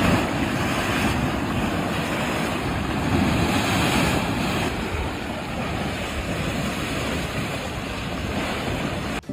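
Strong wind and heavy sea waves, a dense steady rushing with wind buffeting the microphone.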